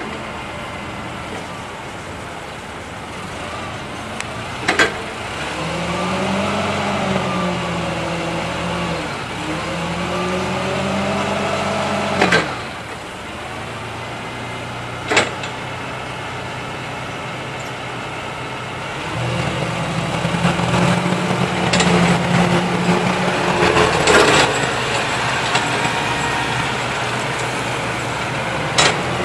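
Cat T150D forklift's LP-gas Perkins engine running, revving up and down twice, then working harder and louder in the latter half, with several sharp metallic clunks along the way.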